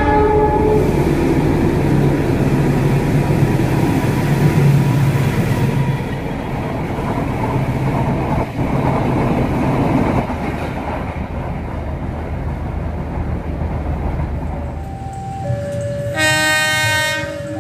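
Trains passing close by: steady rumbling and clatter of wheels on rails as passenger coaches and then freight tank wagons go past. Near the end a diesel locomotive sounds its horn in one loud blast of about a second, over a steady pattern of alternating tones.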